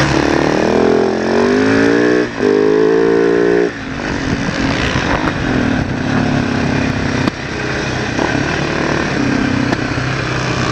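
Supermoto motorcycle engine heard from on board over wind noise: it revs up for the first few seconds, with a short break about two seconds in, then drops off sharply at about four seconds and runs lower and steadier through the bends.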